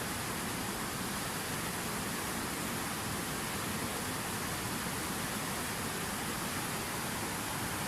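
Water falling from a fountain waterfall, a steady, even rushing splash.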